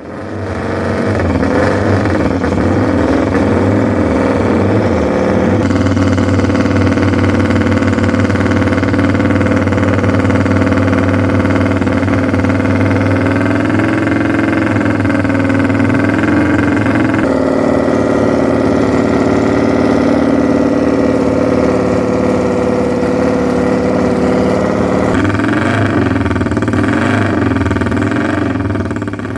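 1953 Matchless G45 race bike's 500cc twin-cylinder engine running loudly and continuously, its note shifting a few times as the revs change.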